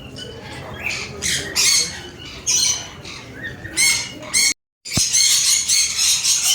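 Many birds squawking with harsh, high calls, at first in separate bursts and then as a dense, near-continuous chorus after the sound cuts out for a moment about two-thirds of the way in.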